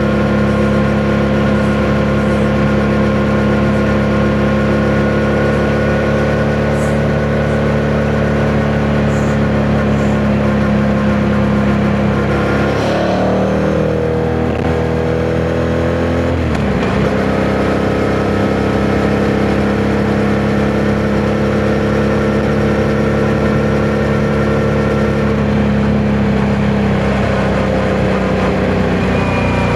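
Yamaha MT-07's 689 cc parallel-twin engine running at steady riding revs, its pitch dropping about halfway through as the throttle closes, then climbing back as it pulls again and rising once more near the end. Wind rushes over the microphone throughout.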